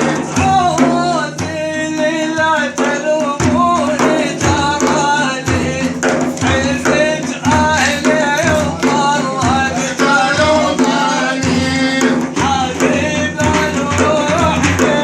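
A man singing an Arabic praise song (madih) over hand-drum percussion in a steady rhythm, with a held low tone underneath.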